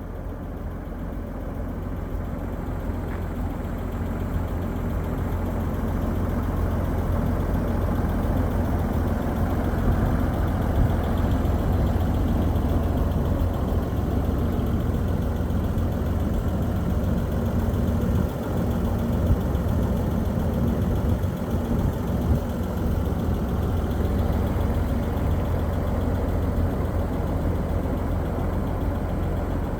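1948 Studebaker M5 pickup's Champion 169 cubic inch six-cylinder engine running with a steady deep rumble, growing louder over the first several seconds and then holding level.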